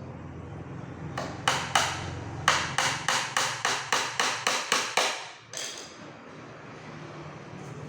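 Hammer driving nails into the wooden slats of a packing crate: three blows, then a quick even run of about ten at roughly four a second, and one more after a short pause.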